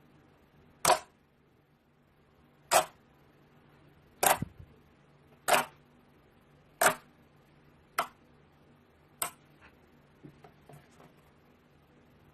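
A series of seven sharp, loud clicks about a second and a half apart, followed near the end by a few much fainter clicks.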